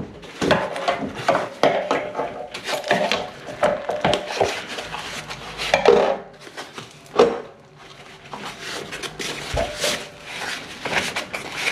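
Clattering and clinking of metal fittings and tools, with knocks and rubbing, as water lines are worked onto the top of a new electric water heater.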